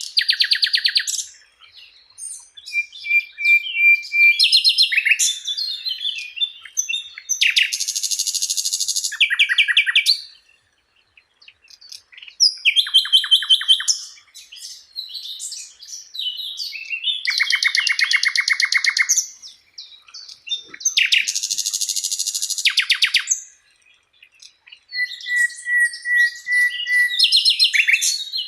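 Songbird singing a loud, varied song: fast rattling trills that last a second or two, chattering runs, and a few held whistled notes, with short pauses between phrases.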